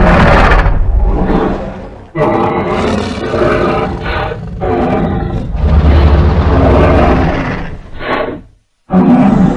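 Monster roar sound effects for a triceratops-like kaiju: a string of about five loud, layered roars and bellows with brief dips between them. A short one comes near the end, then a sudden cut and a new roar.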